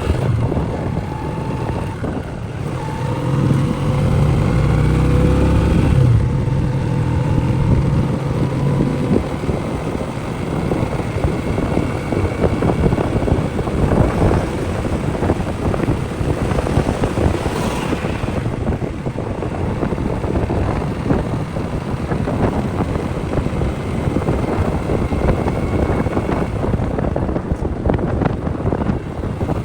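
Motorcycle engine running on the move, its note rising and falling over the first several seconds, with wind buffeting the microphone throughout.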